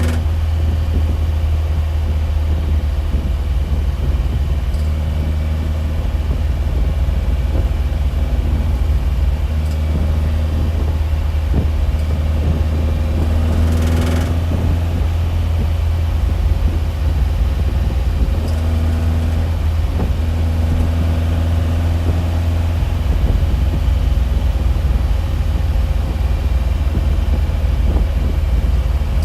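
A loud, steady low drone, unbroken throughout, with fainter steady tones above it and a short hiss about fourteen seconds in.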